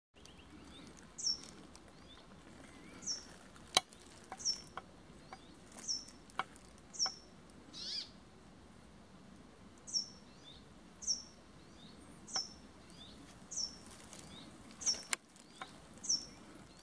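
A small bird repeats a short, high, down-slurred call about once every second or so. A few sharp ticks fall between the calls, the loudest about four seconds in.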